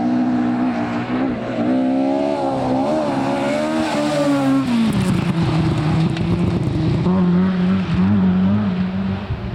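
Rally car engine at high revs, its pitch rising and wavering, then dropping sharply about five seconds in as the driver comes off the throttle, before running on at steadier, lower revs.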